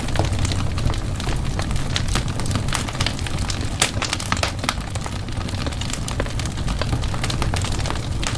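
Wood fire burning in a fireplace, with a steady low rumble and frequent irregular sharp crackles and pops.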